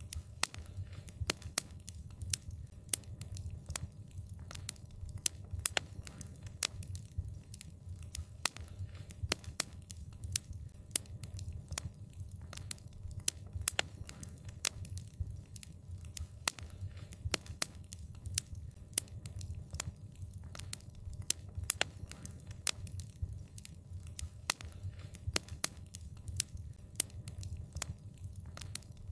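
Wood fire crackling: frequent sharp, irregular pops and snaps over a steady low rumble of the burning fire.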